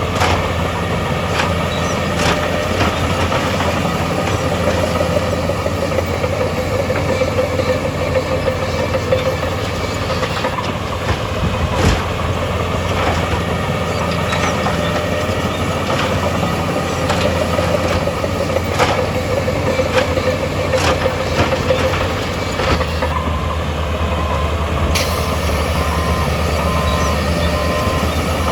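Heavy earthmoving machinery at work: a steady diesel engine drone with scattered metallic clanks and knocks. The engine note shifts late on.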